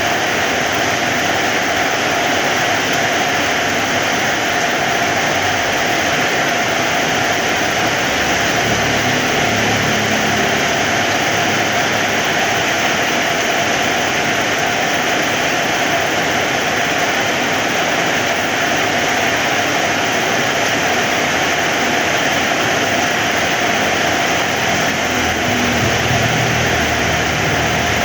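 Heavy rain falling steadily, a dense even hiss. A low engine-like rumble joins it about nine seconds in and again near the end.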